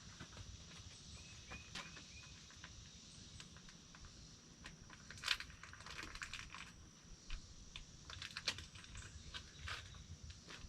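Faint, scattered light clicks and knocks, with a louder click about halfway through and another a few seconds later, over a steady thin high-pitched tone.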